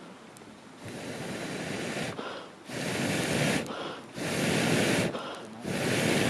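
Repeated bursts of rushing air at a campfire, each about a second long with short gaps between.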